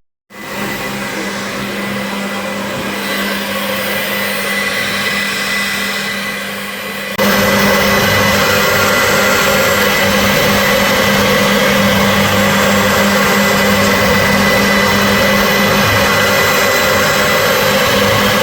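CNC machine running: a steady motor noise with a constant hum, stepping up suddenly to a louder level about seven seconds in.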